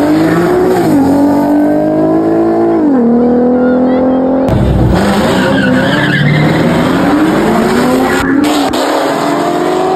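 Car engine revving up and down repeatedly while its tyres squeal and skid, as in a burnout or donut at a street car meet.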